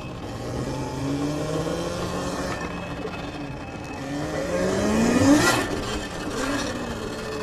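Electric dirt bike's motor whining as it accelerates, its pitch climbing steeply to a peak about five seconds in, then dropping as the throttle eases off.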